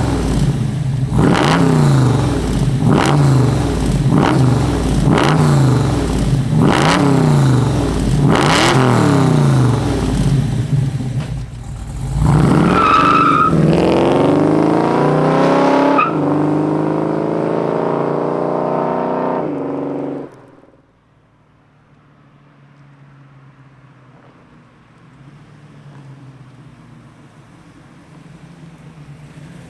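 1969 Camaro SS's 396 big-block V8 with long-tube headers, blipped hard about eight times in quick succession. About twelve seconds in it launches with a brief squeal of tires and pulls away, the revs climbing. Just after twenty seconds it drops to a faint, distant rumble.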